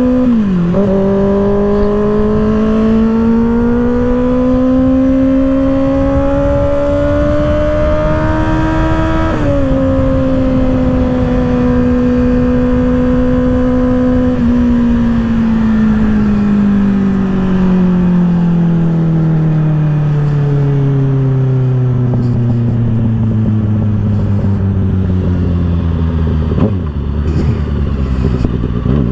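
2024 Kawasaki ZX-6R's 636 cc inline-four through an M4 aftermarket exhaust, heard riding with wind noise: the engine climbs steadily in revs, shifts up about nine seconds in, holds a steady cruise, then slowly winds down as the bike slows, with a short blip near the end.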